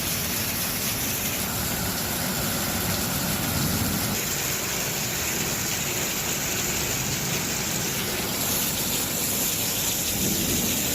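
Hail and heavy rain falling: a steady rushing noise.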